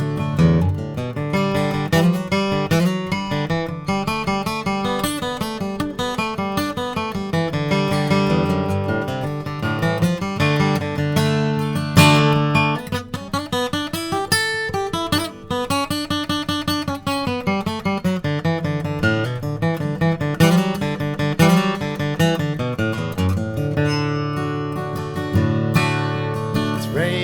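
Yamaha FG830 acoustic guitar played solo: an instrumental break of quick picked melody notes over ringing bass notes and strums, in an old-time country style.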